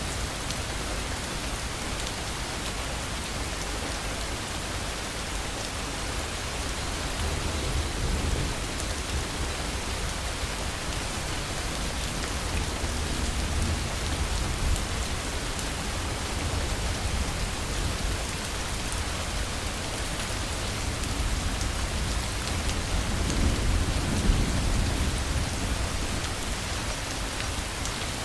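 Steady heavy rain falling, with low rumbles of thunder swelling around eight seconds in and again, strongest, near the end.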